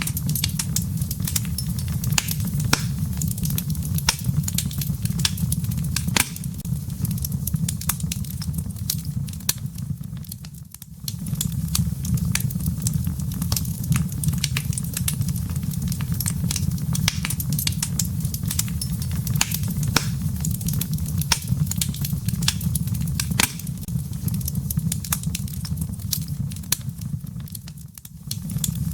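Wood fire burning in a fireplace: a steady low rumble of flame with frequent sharp crackles and pops from the burning firewood. The sound dips briefly about a third of the way in and again near the end.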